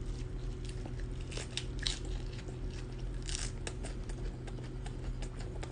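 A person biting into and chewing a lettuce wrap of grilled pork belly close to the microphone, with scattered short clicks and soft crunches of the leaf and meat.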